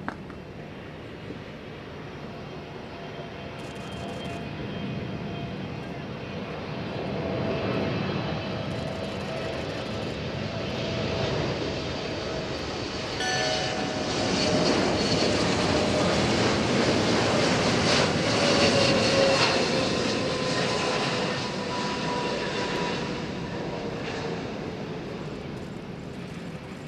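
Boeing 777-300ER's twin GE90 turbofan engines on a landing pass, a rushing jet roar growing steadily louder. It is loudest in the middle, with whining tones that drop in pitch as the airliner goes by, then fades.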